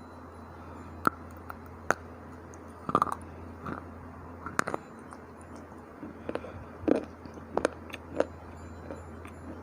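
Hard, dry bar chips being bitten and chewed close to the microphone: sharp, irregular crunches roughly once a second, some in quick clusters, the loudest about three seconds in and again near seven seconds.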